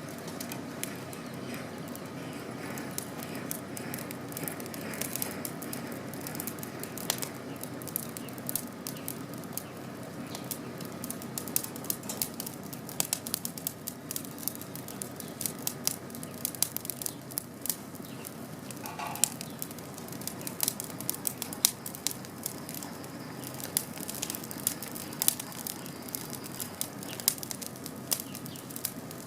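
Campfire crackling: a steady low hiss of burning wood with many sharp pops and snaps, coming thicker and louder in the second half.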